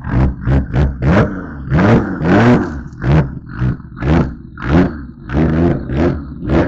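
A car engine revved hard in quick repeated throttle blips, about two a second, each one rising and falling in pitch, with a loud, raspy exhaust.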